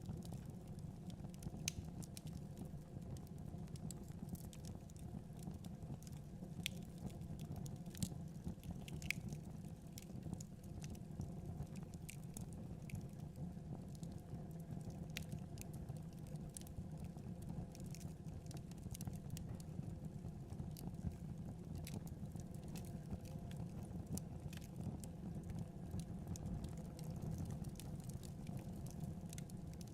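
Wood fire burning in a fireplace: irregular crackles and pops over a low, steady rumble of the flames.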